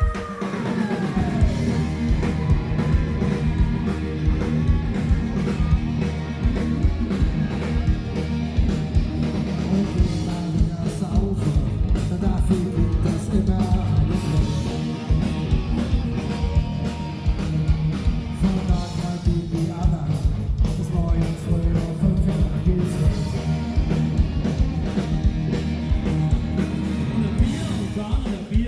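Live band playing a lively song with drum kit, guitar and bass, with a steady beat throughout and some singing.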